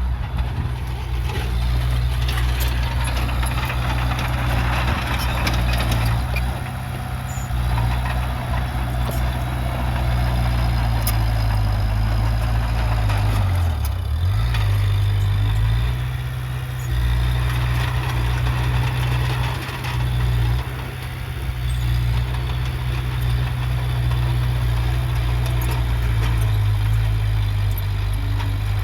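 Heavy diesel engine of earthmoving machinery running continuously under load. Its low note dips briefly about halfway through, then recovers.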